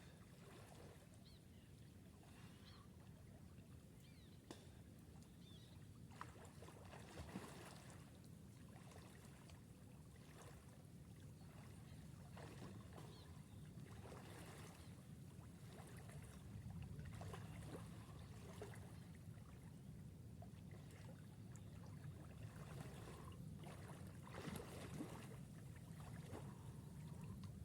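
Faint water sloshing and splashing of someone swimming in a lake, over a low steady rumble.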